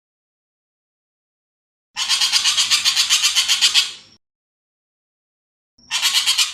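Ekek keling bird giving harsh, rapid rattling calls: one chatter of about two seconds starting about two seconds in, and a shorter one near the end, each made of about nine rasping notes a second.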